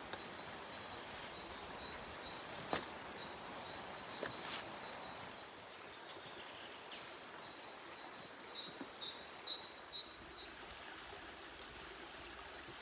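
A bird calling in short high notes, repeated evenly at first, then a quicker run of about six paired notes a little past the middle. Under it is a steady outdoor hiss, with two sharp clicks in the first half.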